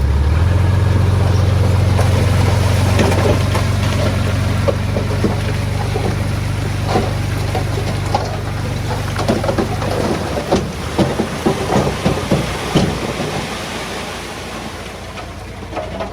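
A heavy engine drones steadily, and loose stone clatters and tumbles. The clattering is densest about nine to thirteen seconds in, and the engine drone drops away at about ten seconds.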